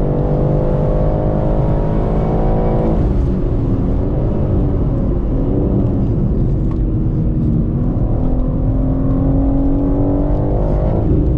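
BMW M3 Competition's twin-turbo straight-six heard from inside the cabin while lapping at speed. The revs hold steady, fall about three seconds in, waver, then climb and hold again before falling once more near the end.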